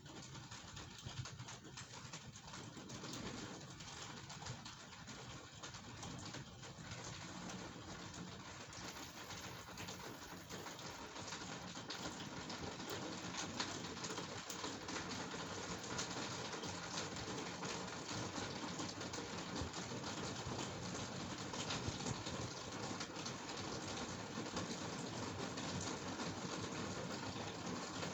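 Steady rain during a thunderstorm, a continuous hiss of falling water with fine patter, growing slightly heavier as it goes on.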